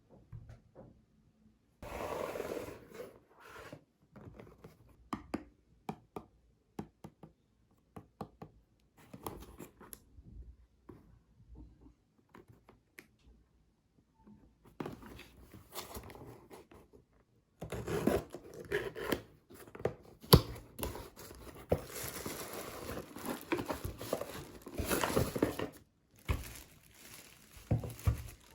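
Packaging being handled at close range: irregular tearing, crinkling and scraping with sharp clicks, busier and louder in the second half.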